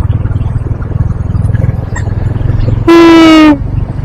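Motorcycle engine running with a steady low pulsing, and about three seconds in a single loud horn honk of roughly half a second, dropping slightly in pitch.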